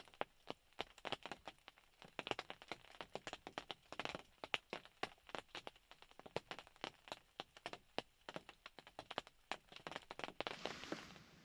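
Rain and melting ice dripping onto the roof of a hunting blind: irregular sharp taps and ticks, several a second, ending in a short hiss near the end.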